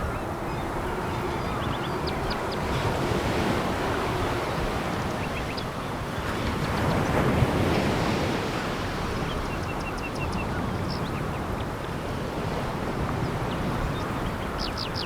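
Sea waves washing onto a pebble beach: a steady rush of surf that swells to a louder break about halfway through. Faint short high chirps sound here and there above it.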